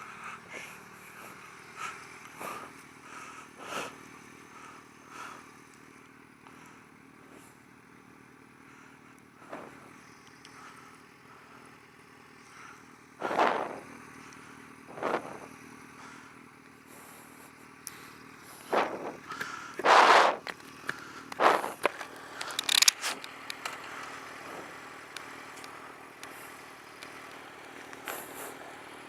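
Sport motorcycle engine idling steadily at a standstill, waiting at a traffic light. Several short bursts of noise break in over it, the loudest cluster about two thirds of the way through.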